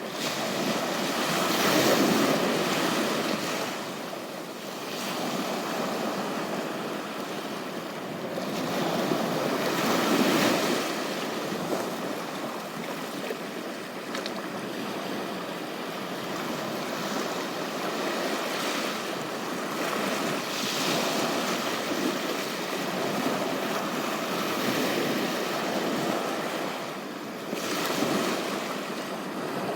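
Ocean surf: waves washing onto the beach, swelling and fading every eight to ten seconds.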